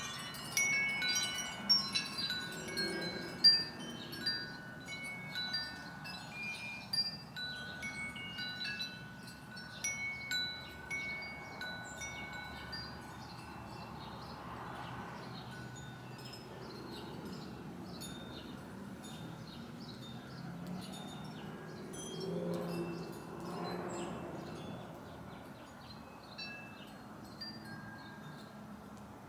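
Wind chimes ringing, a busy run of overlapping notes that thins to a few scattered strikes in the second half.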